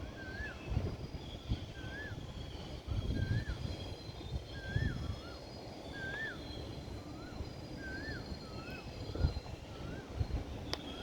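A bird repeating a short, rising-then-falling whistled call about once a second, with fainter higher chirps from other birds, over a steady low rumble.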